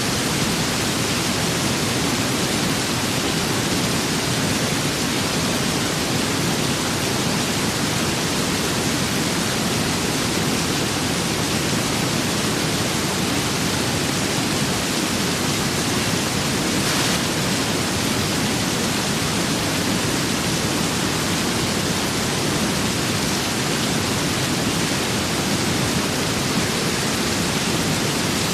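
Steady rain with wind, an even, dense hiss that does not let up.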